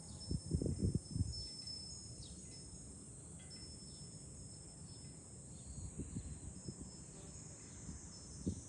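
Cicadas shrilling steadily in a high chorus, with gusts of wind rumbling on the microphone, strongest in the first second and again near the end.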